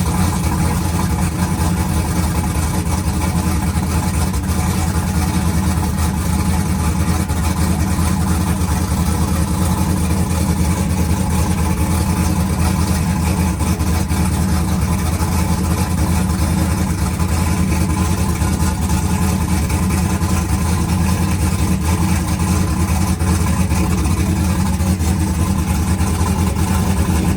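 Drag-race pickup truck's engine idling steadily and loudly, with no revving.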